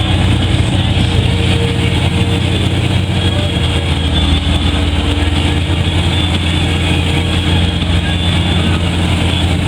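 Large off-road truck engine running steadily at an even speed, a deep constant drone.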